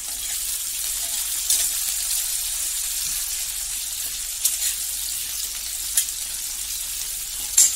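Potato wedges sizzling steadily as they fry in mustard oil in a stainless steel kadai. A metal spatula clinks against the pan four times while stirring, loudest near the end.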